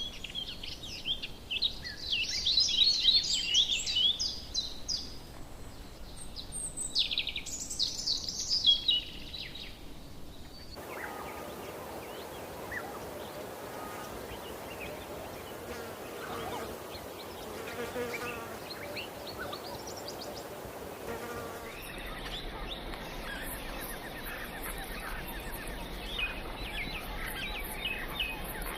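Outdoor morning ambience of songbirds chirping and trilling in rapid high notes, loudest in the first ten seconds. It drops abruptly to a quieter stretch of faint calls over a low hiss, then chirping picks up again near the end.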